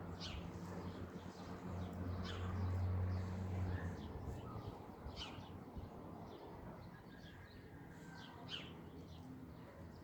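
Wild birds chirping with short, high calls, repeated at irregular intervals.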